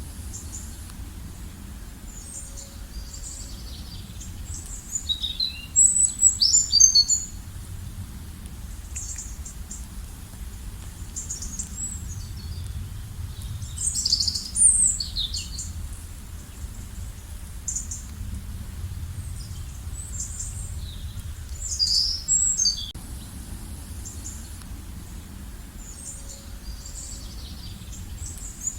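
Songbirds chirping and trilling in short high bursts that come and go every several seconds, over a steady low background rumble.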